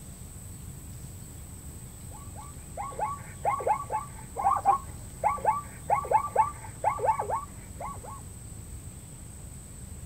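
An animal calling: a quick series of about twenty short notes, each sliding downward, in clustered bursts lasting about six seconds. Underneath is a steady low background rumble and a thin, steady high tone.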